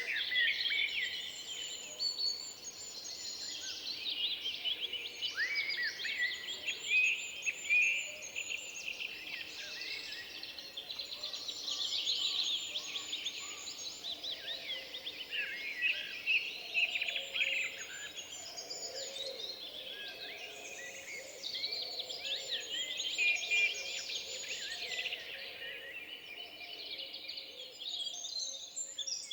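Several songbirds singing at once in woodland, a dense chorus of overlapping chirps, trills and whistles, with softer, lower notes joining in the second half.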